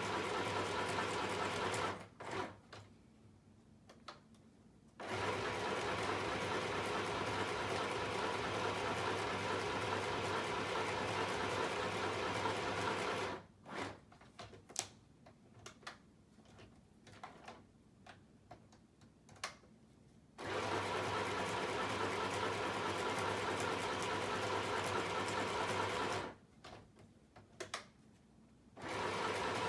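Electric sewing machine running steadily while sewing a zigzag stitch, in stretches of several seconds. It stops three times. During the longest pause, about halfway through, there are a few scattered clicks.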